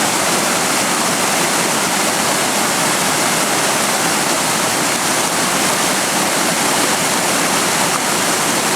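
Small mountain waterfall splashing steadily, a loud, constant rush of falling water.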